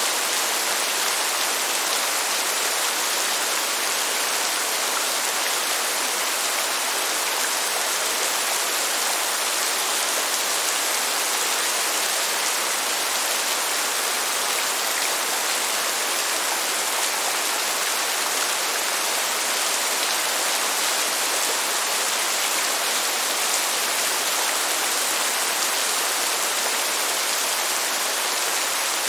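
Steady heavy rain: a dense, even hiss with no thunder and no change in level.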